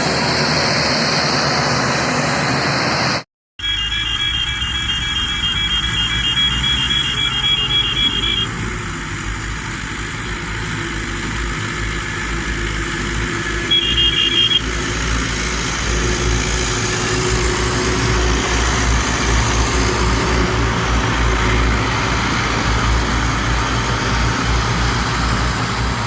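HMT tractor diesel engines running with a steady low drone. A rapid high-pitched beeping sounds for about four seconds soon after a brief cut-out, and again briefly later on.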